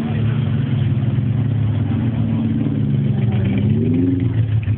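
Classic car engine running steadily, its note rising briefly about three and a half seconds in before settling again.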